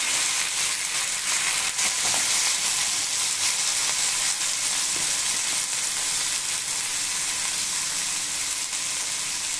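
Boiled peanuts frying in hot tempering oil in a nonstick pan, a steady high sizzle, with now and then a faint scrape of a steel spatula stirring them.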